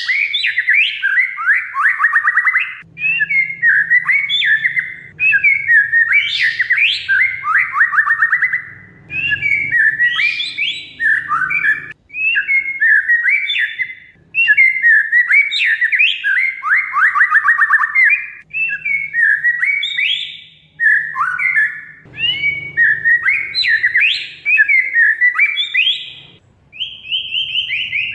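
Oriental magpie-robin (kacer) singing continuously in varied phrases of rapid, chattering trills and sliding whistled notes, separated by brief pauses.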